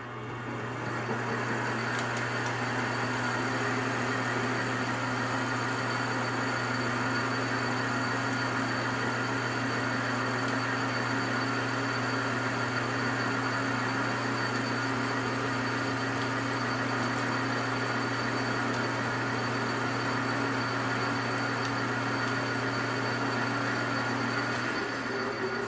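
Metal lathe running steadily, a constant hum with a higher whine over it, starting up at the beginning and easing off near the end.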